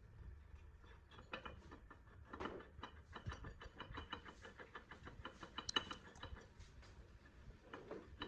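Hand tools clicking rapidly on the compressor, several short clicks a second, with one sharper click about two-thirds of the way through.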